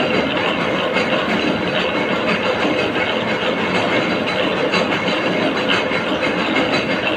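A machine tool running steadily, with a continuous dense metallic clatter and a faint steady whine.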